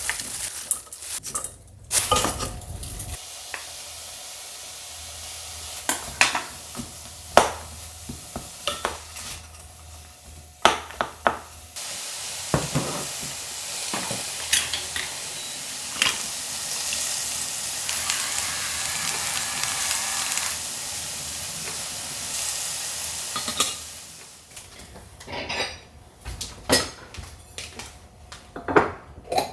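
Food frying in a pan with a steady sizzle that starts suddenly midway and lasts about twelve seconds, while utensils clink and scrape against pans and dishes.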